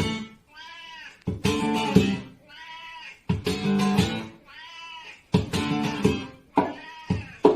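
Strummed guitar chords alternating with a cat's meows. Each of the four meows rises and falls in pitch and sits in the gap between chords, about one every two seconds.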